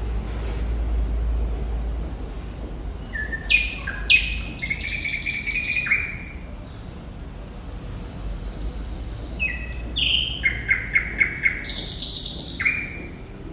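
A thrush nightingale singing in two phrases. Each phrase mixes sharp whistled notes, buzzy high trills and, in the second phrase, a fast run of repeated notes at about six a second. A low rumble sits under the first half.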